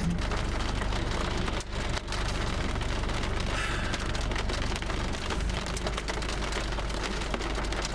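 Steady rain hitting a vehicle: a dense hiss of many small drop impacts over a low, steady hum.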